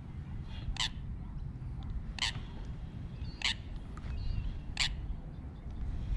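A bird calling repeatedly: five short, sharp calls, one about every one and a half seconds, over a low rumble of wind on the microphone.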